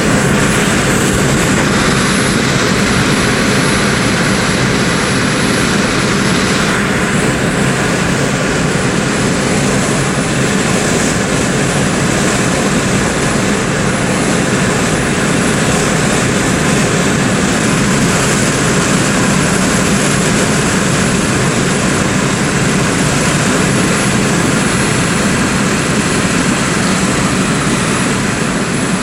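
Steady running noise of a moving vehicle: a constant rumble and hiss of engine and road noise with a thin, faint high whine over it.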